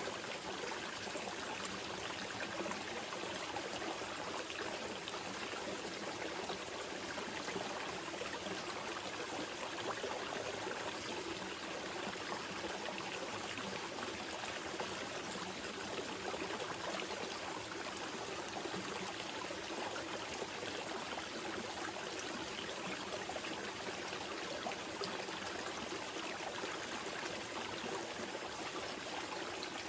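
Small mountain river flowing steadily over rocks, an even rush of water with no breaks or changes.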